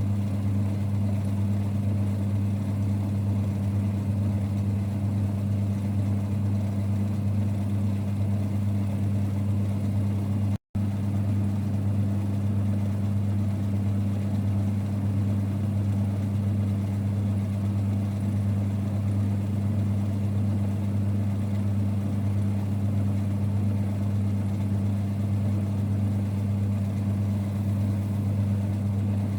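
1946 Boxford lathe running steadily with a low, even rumble. The sound drops out for a split second about ten seconds in.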